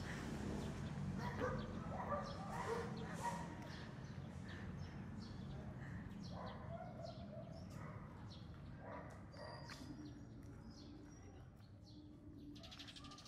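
Birds chirping in short, scattered calls over a steady low background noise, with a few short, louder sounds in the first few seconds.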